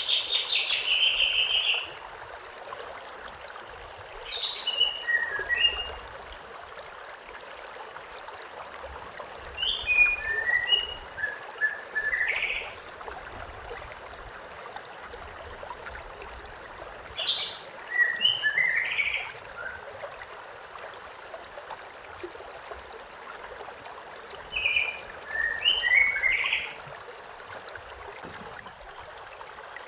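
A river's steady rush of flowing water, with a songbird singing short phrases of several quick notes, five times, about every six to seven seconds.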